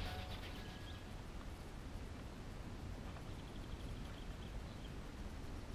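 Faint outdoor ambience: a small bird chirping in quick series of short high notes, near the start and again in the middle, over a steady low rumble.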